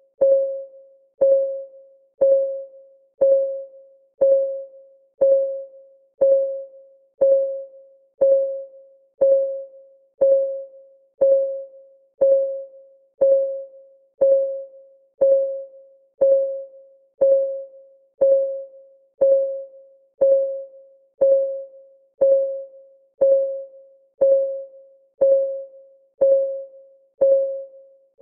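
Countdown timer's clock-ticking sound effect, one tick each second, steady and even. Each tick is a short, pitched tock that fades quickly.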